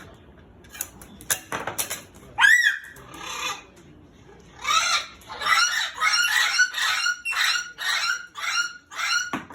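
Cockatoo calling: a few sharp clicks early on, then one squawk that rises and falls, followed by a run of about nine short, harsh squawks at roughly two a second.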